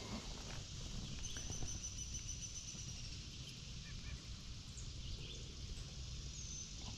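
Outdoor ambience: a steady low rumble with a bird's thin, high, held whistle starting about a second in and lasting a couple of seconds, and a few short bird chirps later.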